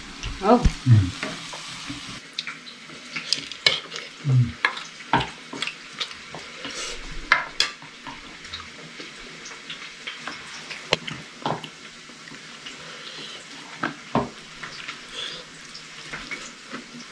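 Food sizzling as it fries in oil in a pan on a gas stove, with frequent sharp clinks of utensils against the pan and a plate.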